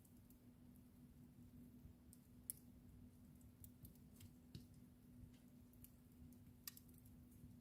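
Wood fire in a fireplace crackling faintly, with sparse small pops and two sharper snaps, over a faint steady low hum.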